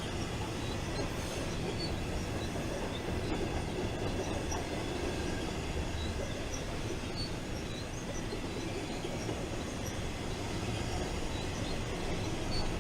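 Intermodal freight train cars rolling past: a steady rumble of steel wheels on rail, with faint, scattered wheel squeaks.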